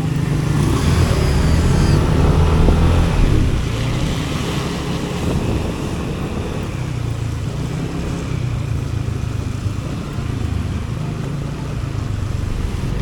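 Motor vehicle driving in traffic: a steady low engine and road rumble, with an engine note rising and falling in the first few seconds.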